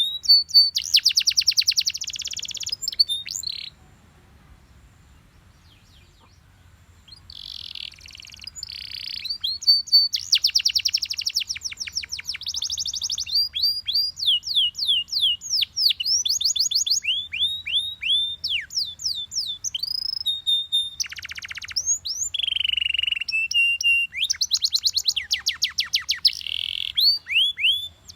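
Yellow Belgian canary singing: fast, rattling trills alternate with runs of quick, repeated downward-sweeping whistled notes. The song breaks off for about three seconds a few seconds in, then resumes.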